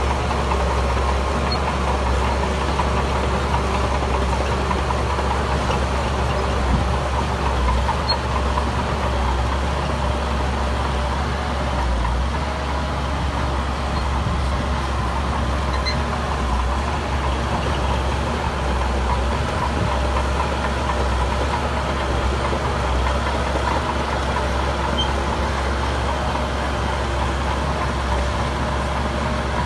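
Diesel engine of heavy construction machinery running steadily, with a constant low rumble.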